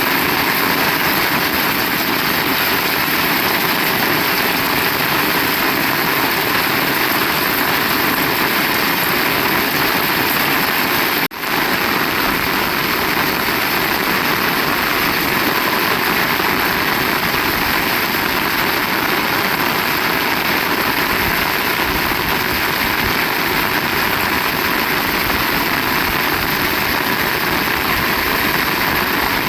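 Heavy rain falling steadily, a dense, even hiss, with a brief dropout about eleven seconds in.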